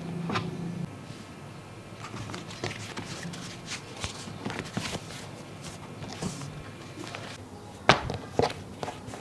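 Irregular light taps, knocks and handling noises, with two sharper, louder knocks close together near the end.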